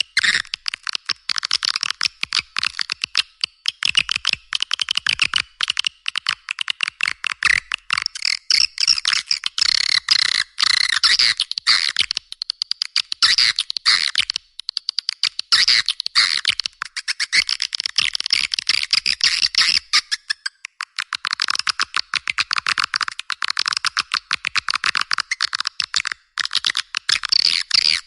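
Swiftlet lure-call recording: dense, high, rapid twittering chirps and clicks, with a few short breaks.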